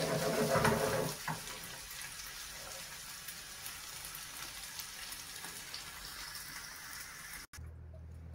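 Sliced onions sizzling in oil in a frying pan over a gas flame: a steady, fine crackling hiss, louder in the first second or so. About seven and a half seconds in, it cuts off and a low steady hum takes over.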